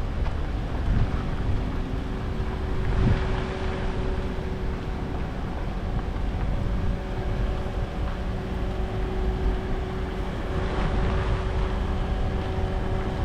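Heavy engines running steadily, from road-paving machinery and traffic, with a low rumble, a steady hum and wind on the microphone. There is a brief louder swell about three seconds in.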